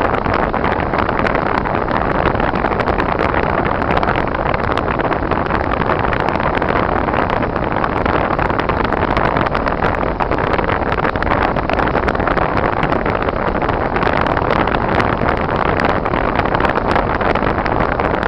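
Steady, unbroken noise of a car driving on snowy, icy roads: tyres, engine and wind together, with no change in level.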